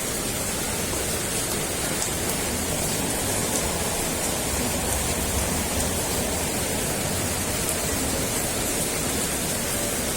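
A steady, even hiss of noise with a few faint ticks.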